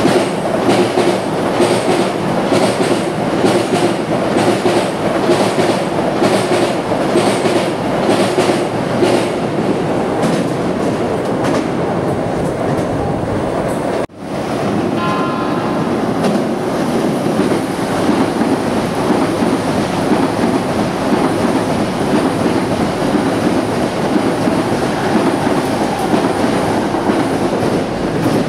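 JR East E657 series limited express electric trains passing through a station at speed: a loud rush of air and running gear with a regular clickety-clack of wheels over rail joints. About halfway through the sound drops out for a moment, then a second train approaches and rushes past.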